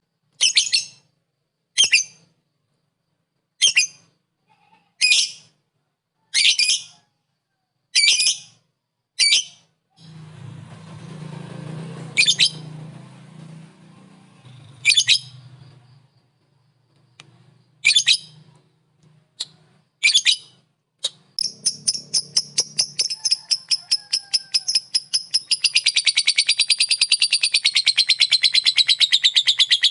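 Lovebird calling: sharp shrill single calls about every one and a half seconds. About two-thirds of the way through these turn into a long, fast chattering trill, the ngekek.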